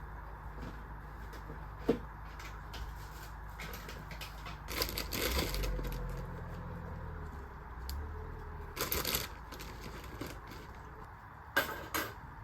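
Kitchen handling sounds of food preparation: a sharp knock about two seconds in, scattered light clicks, and short noisy bursts around five, nine and twelve seconds, over a steady low hum.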